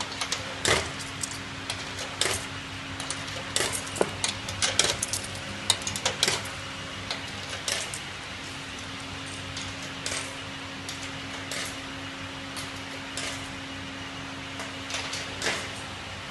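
A run of sharp metallic clicks and clinks, dense for the first several seconds and sparser later, over a steady low electrical hum.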